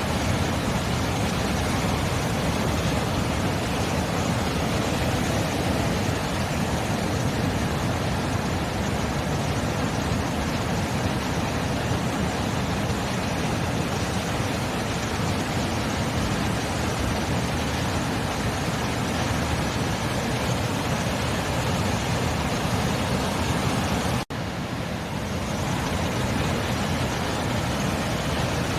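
Ocean surf: a steady, continuous wash of waves with no distinct breaks, cut by a momentary gap about 24 seconds in.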